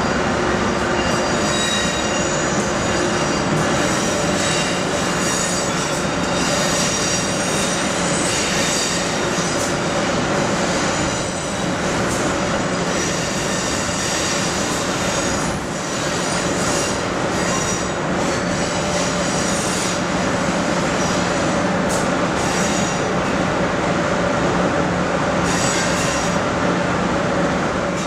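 Train running on rails: a steady rumble with high-pitched wheel squeals at several pitches that come and go.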